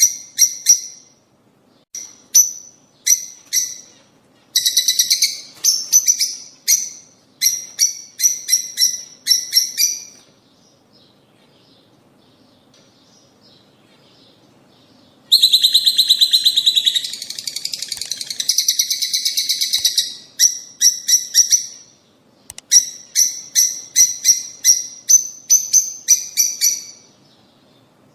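Lovebirds chirping: rapid runs of short, sharp, high-pitched calls, several a second, with a pause of about five seconds in the middle.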